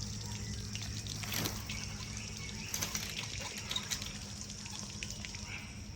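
Water trickling and splashing, over a steady low hum.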